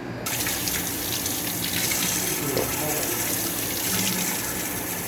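Tap water running steadily, starting just after the beginning, as the dishwasher's clogged water-inlet filter is rinsed clean.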